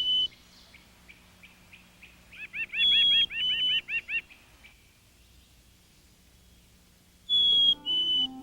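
A songbird singing clear whistled two-note phrases, the second note a little lower than the first, three times. Near the middle comes a fast run of arched chirping notes, with faint chips between the phrases.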